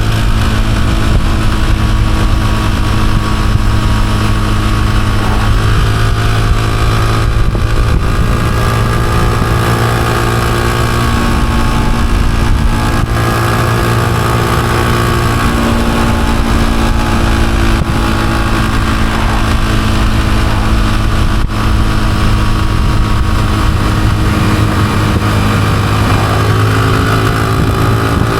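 Honda CG125's single-cylinder four-stroke engine running steadily while the motorcycle rides along, with a few brief shifts in engine pitch.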